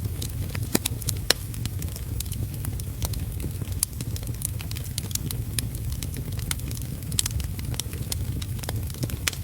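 Wood fire crackling in a fireplace, with frequent sharp, irregular pops over a steady low rush, and steady heavy rain underneath.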